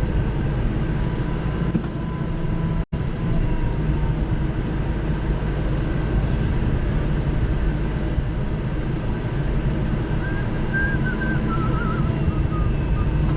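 Kubota L3940 tractor's three-cylinder diesel engine running steadily under load, heard from inside the closed cab. The sound drops out for an instant about three seconds in.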